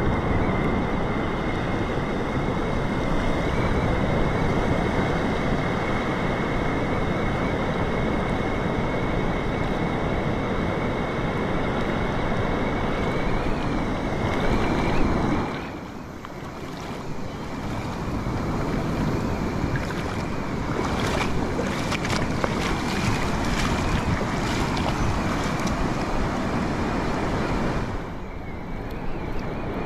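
Ocean surf and wind buffeting the microphone: a steady, loud rushing noise. It drops abruptly a little past halfway, then builds back, and dips again near the end.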